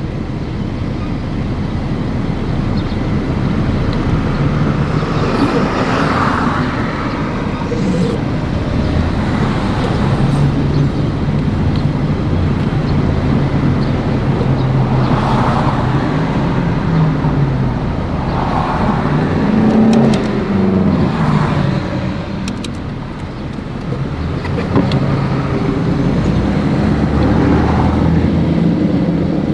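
Car engine and road noise of a moving vehicle, steady throughout, with the engine note drifting up and down a little.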